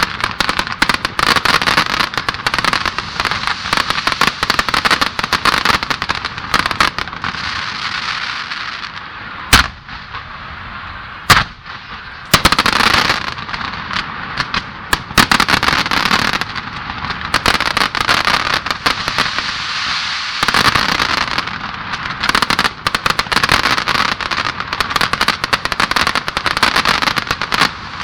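Aerial fireworks display: dense, continuous crackling of bursting effects, with a few single loud bangs of shells bursting around the middle.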